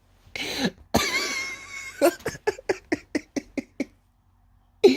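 A man coughing: one hard cough, a rough breath, then a run of quick short coughs that stops about a second before the end.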